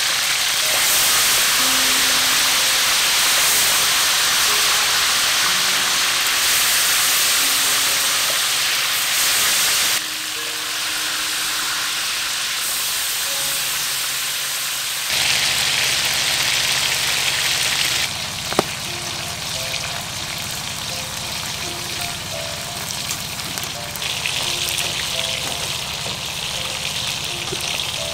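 Fish frying in hot oil in a steel wok, a steady loud sizzle whose level shifts at several cuts, with one sharp click about two-thirds of the way through. Near the end it gives way to fish sizzling on a wire grill. Soft background music with short melodic notes plays underneath.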